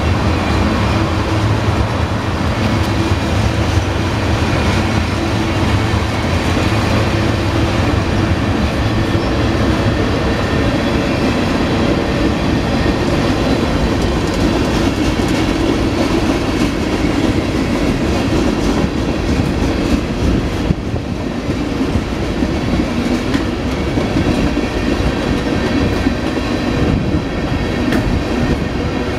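Tank cars of a freight train rolling past: a steady, loud rumble of wheels on the rails with a constant clatter of clicks.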